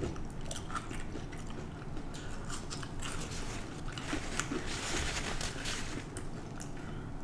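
A person chewing a french fry close to the microphone: irregular soft crunches and wet mouth clicks.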